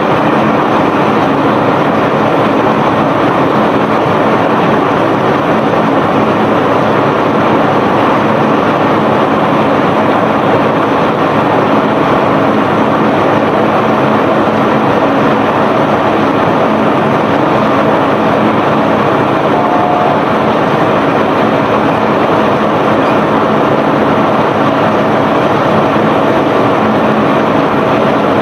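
Self-unloading barge's cargo-handling machinery running steadily as bulk cargo is discharged: a loud, unchanging rush of noise with a faint steady hum through it.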